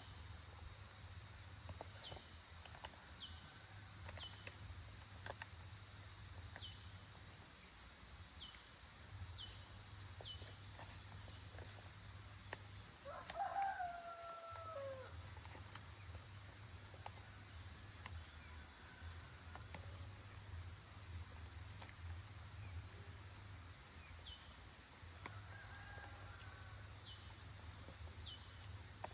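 A rooster crowing once, loudly, about halfway through, over a steady high-pitched insect drone. Fainter crows from farther off come near the start and near the end.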